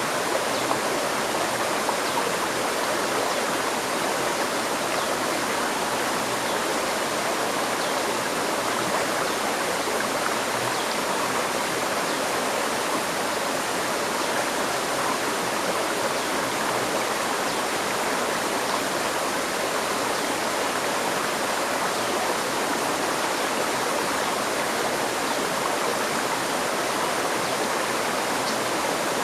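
A river stream flowing, a steady, even rush of water with no change throughout.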